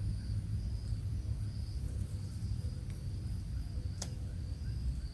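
Outdoor ambience with a steady low rumble, and a faint high-pitched insect-like buzz that comes and goes. A row of very high ticks runs through the middle, and one sharp click comes about four seconds in.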